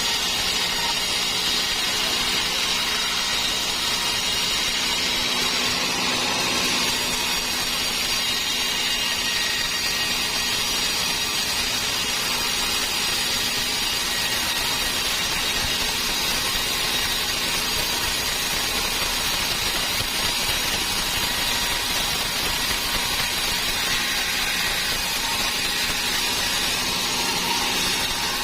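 Sawmill saw machinery running steadily: a constant hum under a strong high hiss, with no break or change in level, the sort of sound made while a large dry teak log is being sawn.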